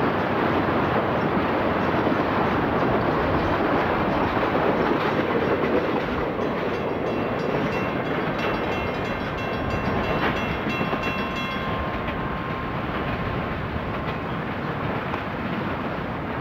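Freight train cars rolling past at a grade crossing: steel wheels on the rails make a steady clattering rumble. A faint steady whine joins in the middle, and the sound grows a little quieter in the second half as the train moves away.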